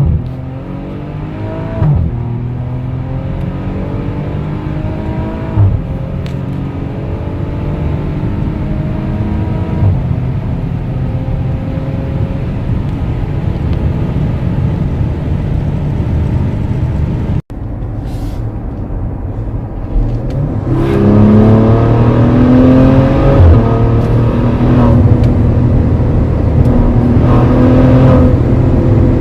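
Maserati Levante GranSport SQ4's twin-turbo V6 accelerating through the gears: the engine note climbs in pitch, drops back at each upshift and climbs again, with one long steady pull in the middle. The sound cuts out briefly about two-thirds of the way through and comes back louder, still pulling hard and shifting up.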